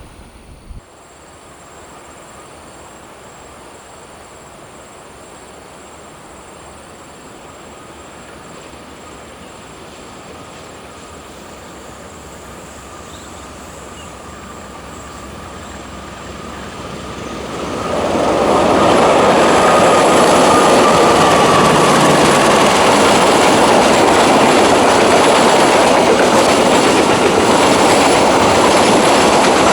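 A train approaches, growing steadily louder for about eighteen seconds, then passes close by as a loud, steady rumble of wheels on rail. A thin high wheel squeal rises with it and is strongest as the train arrives, then fades: flange squeal from the wheels on the curve.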